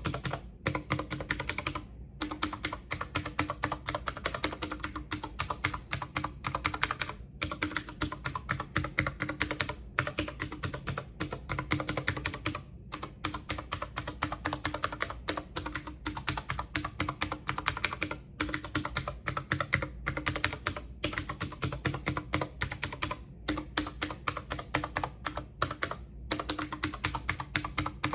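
Fingers typing fast and continuously on a computer keyboard, a rapid run of key clicks with a few short pauses.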